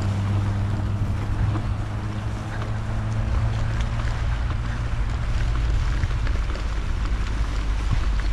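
Wind rushing over the microphone with a low, steady rumble from a mountain bike rolling along a dirt trail, with scattered small clicks and rattles.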